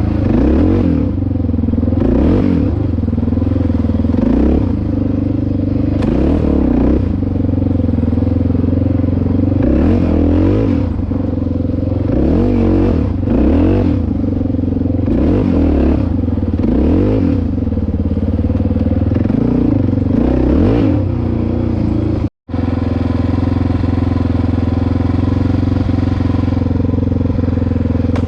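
Dirt bike engine under way, its revs rising and falling every second or two as the throttle is worked. After a brief cut about three-quarters through, it runs at a steady pitch.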